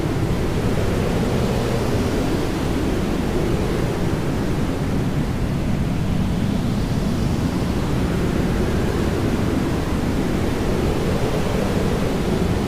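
Jet aircraft engine noise: a steady, loud rushing that carries on without a break.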